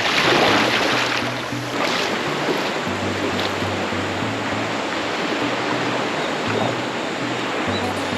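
Sea surf washing on a beach, swelling near the start and again about two seconds in, under background music with a steady low bass line.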